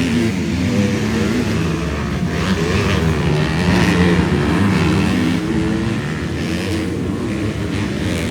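Several 250cc four-stroke motocross bikes racing on the track, their engines revving up and down over one another.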